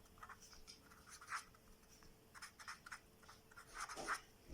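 Faint handwriting: a run of short, irregular scratchy strokes of a writing tool on a surface, a little louder near the end.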